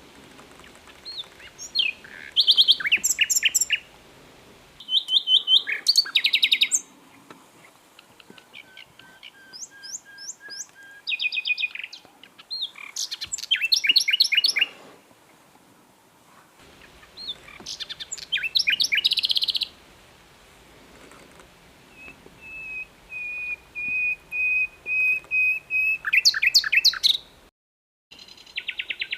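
Common nightingale (Luscinia megarhynchos) singing: short phrases of rapid repeated notes and trills, separated by pauses of a second or two. Near the end comes a long run of pure whistled notes that swells louder, followed by a fast trill.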